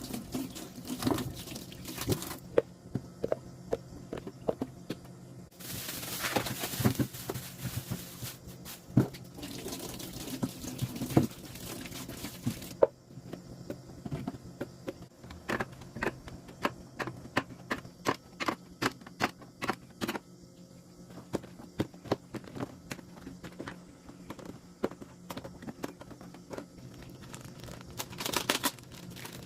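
Plastic containers and food packaging being handled while a refrigerator is organized: many light clicks, taps and clacks, with a stretch of steady rustling from about six to thirteen seconds in.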